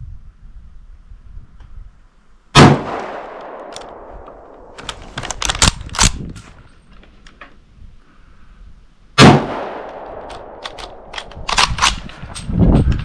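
Two shots from a Yugoslavian M95M straight-pull rifle in 8mm Mauser, about six and a half seconds apart, each ringing out after it. Each shot is followed by a quick run of metallic clacks as the straight-pull bolt is worked.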